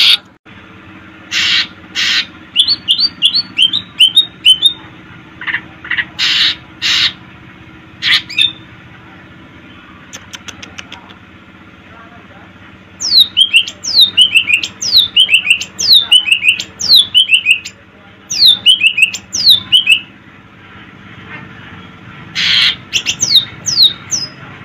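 Cucak ijo (green leafbird) singing. Loud harsh chattering notes alternate with fast runs of falling whistles, several a second, with the longest runs about 13 to 20 seconds in and short pauses in between.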